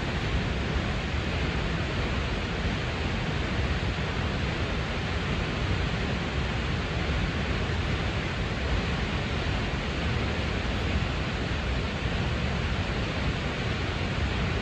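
Snoqualmie Falls, a 268-foot waterfall, plunging into the river below with a steady, unbroken rush of falling water.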